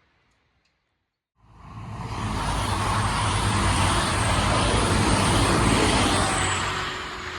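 A train passing at speed: a loud rushing rumble with a low steady hum, starting abruptly about a second and a half in and easing off near the end.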